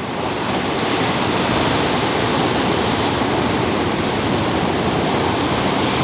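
Ocean surf washing ashore: a steady rush of wave noise that swells over the first second and then holds.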